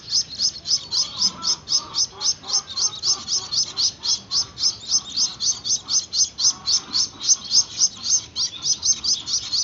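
Gouldian finch chicks giving a rapid, unbroken string of short, high begging chirps, about five a second, while being hand-fed.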